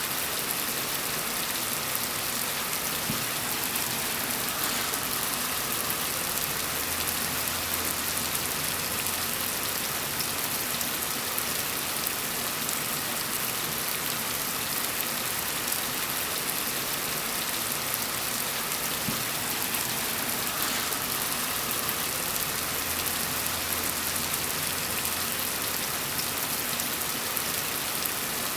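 Steady rain falling, an even hiss of drops on surfaces with no breaks. A faint low rumble swells under it twice.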